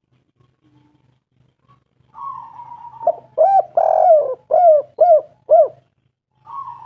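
A spotted dove calling. After a quiet start, a rolling, purring note leads into a quick run of about six loud, arched coos, and another rolling note begins near the end.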